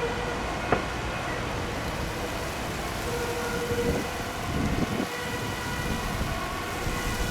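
Gusty wind rumbling on the microphone over the steady hum and whine of a jet airliner's engines.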